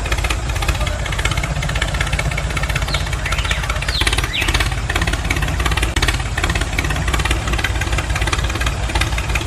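Small electric gear motor of a homemade toy tractor running steadily, with a rapid buzzing rattle from its gears and a few brief high squeaks around the middle.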